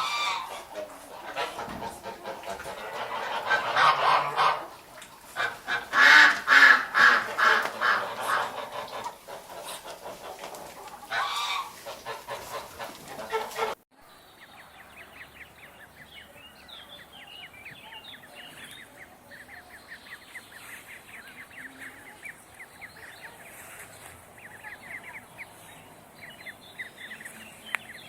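Geese honking loudly in repeated bouts. About halfway through it cuts to a quieter flock of poultry calling in short, rapid notes.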